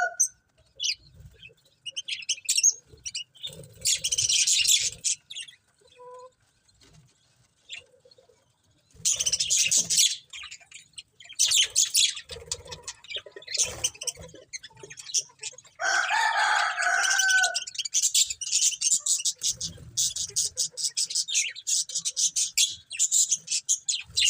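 Budgerigars chirping and chattering in quick bursts, turning into a near-continuous run of fast chirps in the last third, with one louder, longer call about sixteen seconds in.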